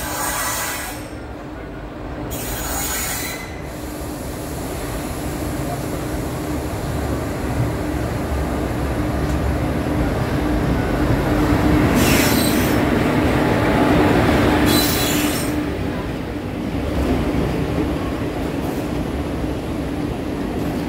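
Passenger train running past on the adjacent track, steel wheels rumbling over the rails with a steady hum. The noise builds to its loudest a little past the middle, then eases. Four short high-pitched bursts break in, two near the start and two past the middle.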